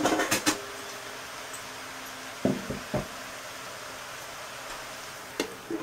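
Squash sizzling steadily in a hot nonstick pan on a gas burner, a soft even hiss. A few short knocks land near the start, and two more come about two and a half and three seconds in.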